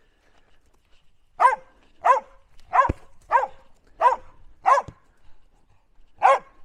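Dog barking at play during a game of ball: six short barks at an even pace, about two-thirds of a second apart, then a pause and one more bark near the end.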